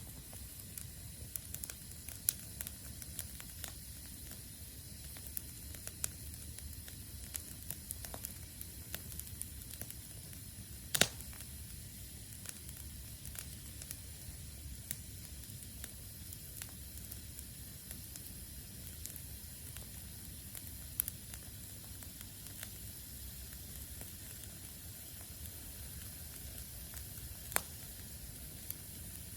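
Campfire burning damp wood: a steady sizzling hiss as the moisture in the wood boils off, with scattered crackles and pops, the loudest about eleven seconds in.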